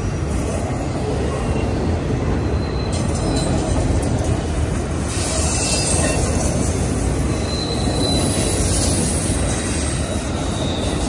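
Autorack freight cars of a long CSX train rolling past: a steady rumble and rattle of steel wheels on rail, with a few brief faint wheel squeals in the second half.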